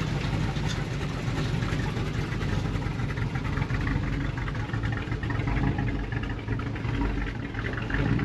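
Car engine running steadily, its sound heavy in the low pitches.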